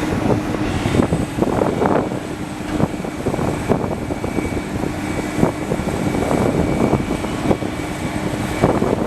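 Tracked excavator's diesel engine running steadily with a faint high whine, under repeated sharp clanks and knocks from the machine.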